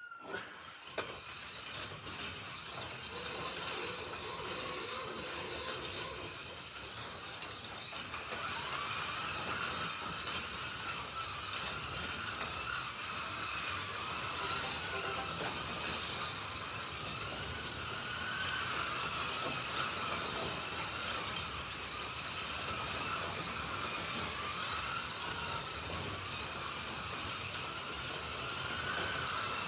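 Slot.it slot cars (Alfa Romeo T33s and a McLaren M8D) lapping a track: small electric motors whining, the pitch wavering up and down as the drivers work the throttles. The whine starts about half a second in and gets somewhat louder about eight seconds in.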